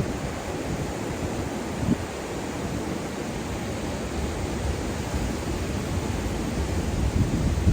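Ocean surf washing onto a beach: a steady rushing noise, with a deeper rumble that swells again near the end.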